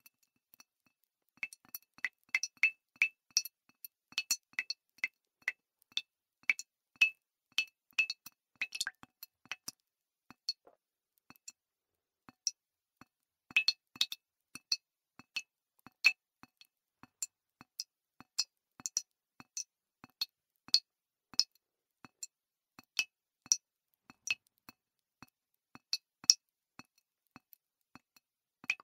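Water dripping: single drops falling at irregular intervals, each a short, sharp, pitched plink. They come in quick runs of several drops a second in the first third, stop for about three seconds, then carry on more sparsely.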